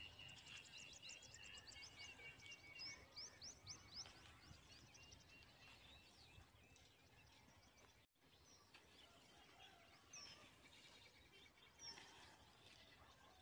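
Faint bird chirps over a quiet outdoor background hiss: a quick run of short high chirps in the first few seconds, then scattered single chirps. The sound drops out briefly about eight seconds in.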